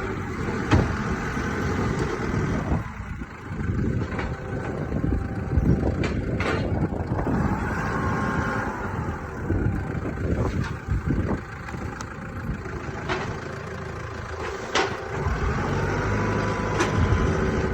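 Truck engine running with a steady low rumble, with scattered knocks and clatter over it.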